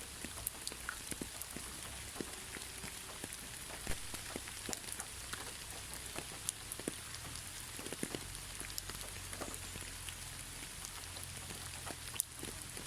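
Steady gentle rain without thunder: a constant hiss with many scattered individual drops ticking on a surface.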